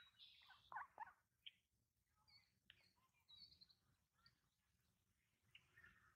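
Near silence, with a few faint, short bird chirps and calls scattered through it.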